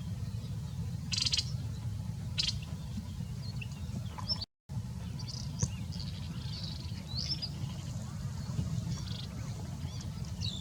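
Small birds chirping in short, high calls and quick rising and falling notes, thickening in the second half, over a steady low rumble. The sound drops out briefly about four and a half seconds in.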